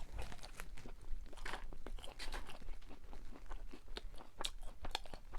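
A person chewing seasoned french fries with mouth noises: many small, irregular crunching clicks, fairly soft rather than crisp.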